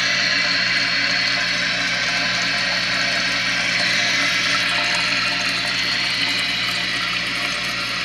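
Toilet tank refilling after a flush: water rushing in with a steady hiss.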